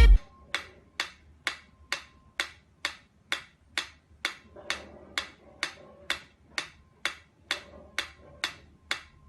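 Steady, even ticking: about two sharp ticks a second.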